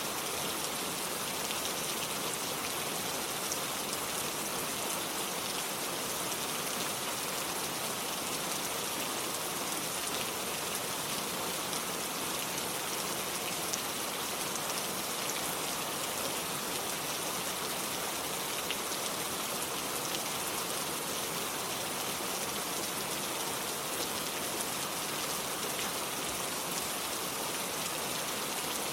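Steady rain falling on a wooden porch and a lake surface, an even hiss dotted with small drop ticks.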